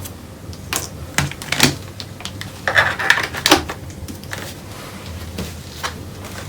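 Handling clatter of objects being moved on a workbench: a string of irregular clicks and knocks, with a brief scraping rustle about three seconds in.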